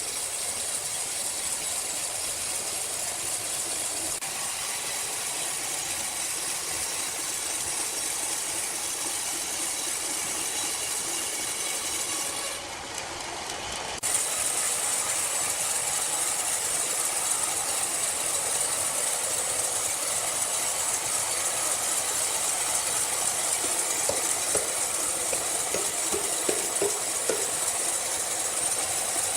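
Sawmill machinery running with a steady hissing noise. About thirteen seconds in it dips briefly, then comes back slightly louder.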